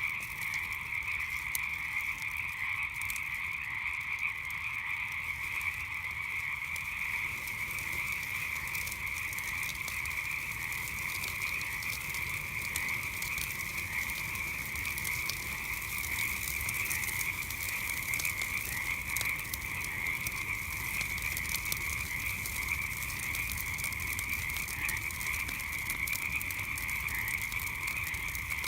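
A dense chorus of frogs calling without pause, a steady high trilling mass of calls, with faint crackling from a campfire underneath.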